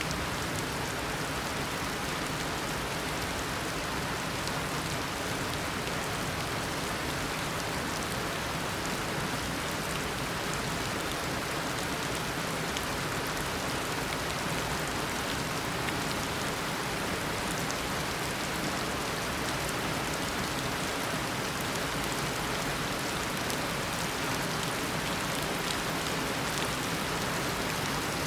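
Heavy tropical rain falling steadily, a dense even downpour with the patter of drops striking surfaces.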